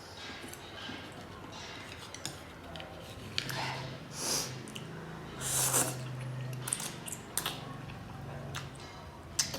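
Someone eating a bowl of instant noodles: a utensil clicks against the bowl, with a few short breathy bursts of slurping, the loudest about six seconds in.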